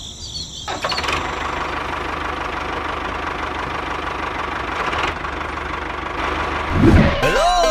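A motor running steadily with an even, engine-like drone. Near the end it is cut by a loud thump, and a rising tone leads into music.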